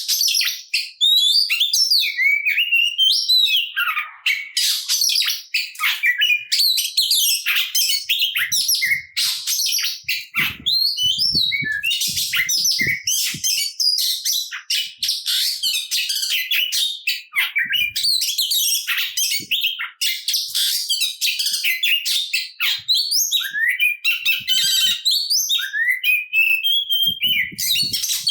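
Oriental magpie-robin (kacer) singing without pause: a fast, varied stream of whistles, trills and chattering notes, full of phrases mimicked from other birds.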